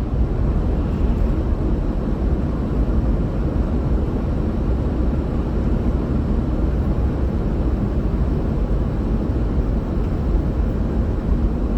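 A steady, low rumbling noise without breaks.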